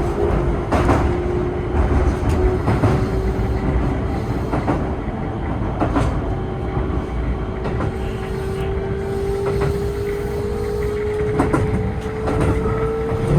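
Keihan 3000 series electric train running on elevated track. The traction motors give a steady whine that slowly rises in pitch as the train gains speed, over a rolling rumble, with scattered sharp clicks of wheels over the rails.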